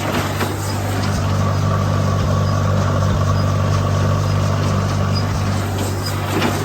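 1957 Case 400 tractor's four-cylinder engine running steadily under load while driving a PTO-powered Case 130 baler baling straw.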